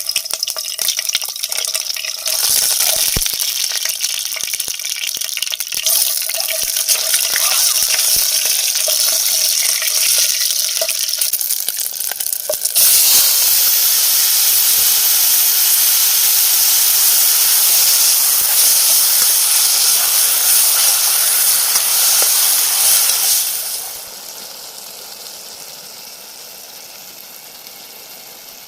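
Food sizzling in a hot pan, a steady hiss that grows louder about halfway through and then drops away sharply about four seconds before the end.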